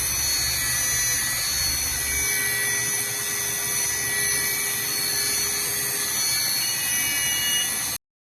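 Five-axis CNC milling machine running and cutting, with several steady high whining tones from the spindle and cut. The low hum drops away about two seconds in, and the sound cuts off suddenly near the end.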